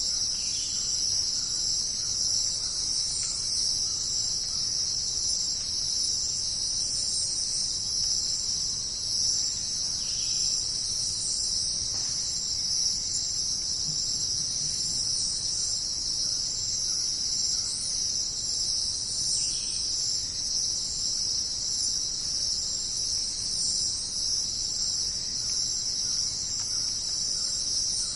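A dense, steady chorus of crickets chirping, high-pitched and unbroken, with a few faint short bird calls about a second, ten and twenty seconds in.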